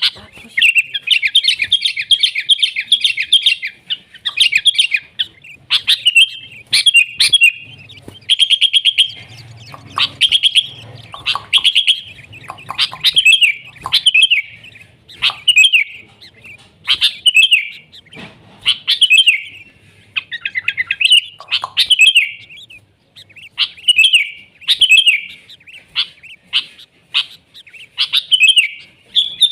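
Sooty-headed bulbul (kutilang) singing in full, lively voice. It gives short, bright whistled phrases about once a second, broken by rapid chattering trills.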